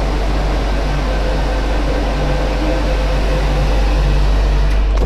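MTR Q-train running at speed through the tunnel, a loud steady rush of noise over a low hum with faint steady tones of the running gear. Near the end a brief click comes and the hiss starts to fall away.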